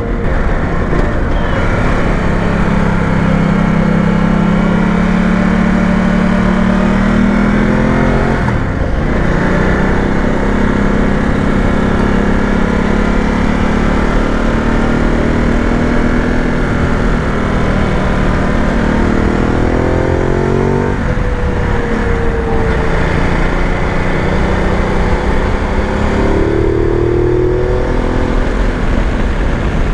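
Ducati Multistrada 950's L-twin engine pulling through the gears under way. Its note climbs steadily, drops sharply at a gear change about eight seconds in, and climbs again, with further climbs and drops around twenty and twenty-seven seconds in.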